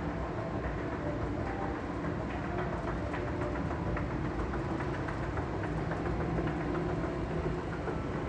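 Subway station escalator running: a steady mechanical hum with scattered light clicks.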